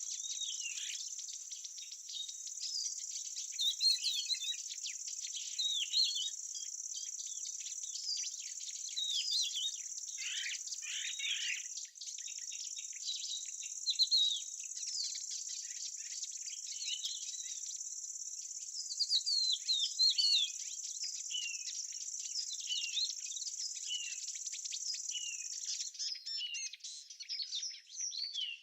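Outdoor summer-to-autumn ambience: insects trill steadily in a high, unbroken drone while small birds give many short, quick chirps and twitters over it. The insect trill cuts off near the end, leaving only the bird chirps.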